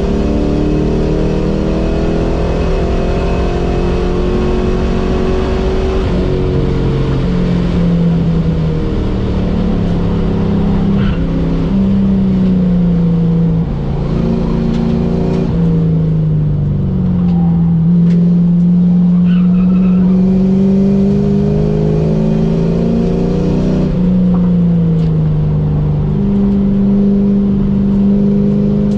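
Car engine heard from inside the cabin while lapping a race track. The revs climb and fall again and again as the car accelerates, shifts gears and slows for corners.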